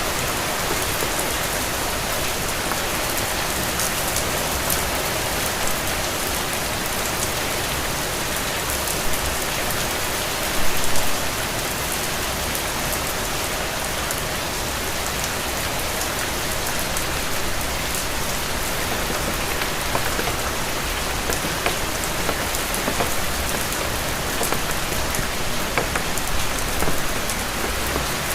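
Steady rain falling, with scattered sharper drop ticks and a brief louder patch about eleven seconds in.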